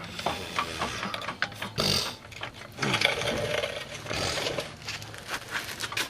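Irregular metal clicks and knocks as a new CV axle is pushed and worked into the transmission, over a faint steady hum.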